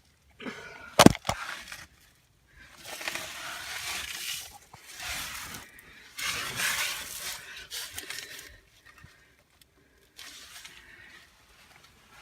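Crunching and scraping of ice and frozen snow while climbing, in several stretches, with one sharp crack of ice about a second in.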